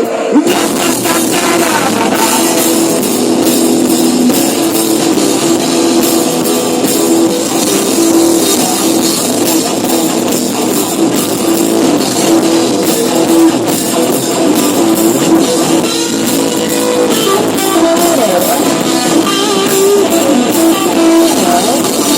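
Rock music with guitar and drums, played without vocals.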